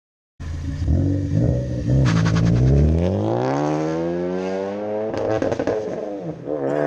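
Turbocharged Ford ST four-cylinder with a catless downpipe and three-inch cat-back exhaust accelerating hard, its pitch climbing steadily for a few seconds. It dips around five seconds in, as at a gear change, then climbs again. There is a quick rattle of pops as the climb begins.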